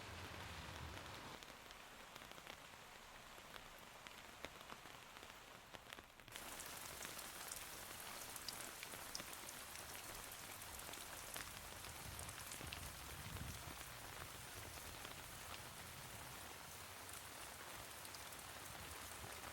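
Steady rain falling, with many small sharp drop ticks. About six seconds in, the sound suddenly becomes brighter and slightly louder.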